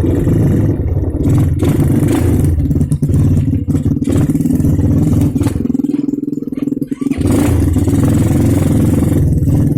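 Motorcycle engine running while riding, with a few knocks. The engine note drops for about a second a little past the middle, as the throttle is eased off, then picks up again.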